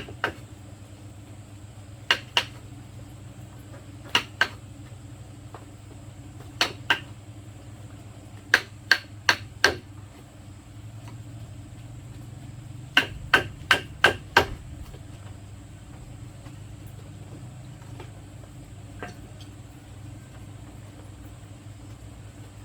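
Hammer blows in short bursts of two to five strikes, spaced a few seconds apart, as bamboo wall pieces are fastened; the hammering stops about two-thirds of the way through.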